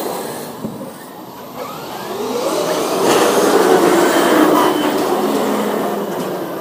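Electric RC monster trucks racing, their motors whining with a rising pitch as they speed up and tyres rushing over the court. It grows louder about halfway through as they pass close, then eases off.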